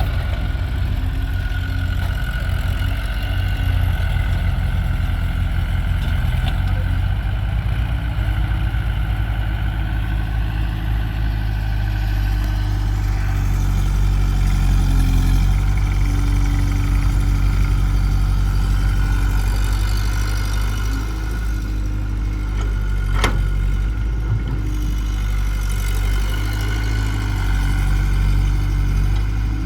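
Heavy diesel engine running steadily at low revs, with a single sharp click or knock about 23 seconds in.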